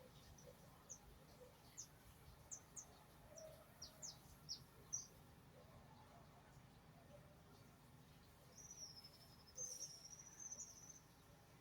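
Small birds chirping faintly: a quick series of short, high chirps, then a longer warbling song phrase near the end.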